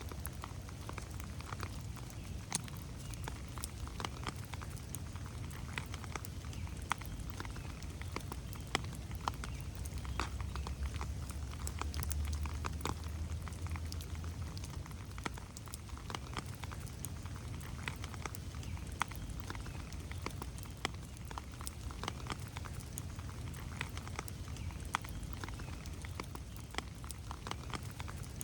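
Steady rain in a forest, with many separate drops ticking close to the microphone over a low rumble that swells for a few seconds about halfway through.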